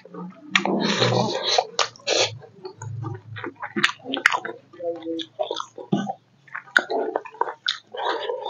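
Close-miked chewing and lip-smacking of a mouthful of smoked pork and rice, in irregular wet bursts, with squelching as a bare hand mixes rice through the gravy.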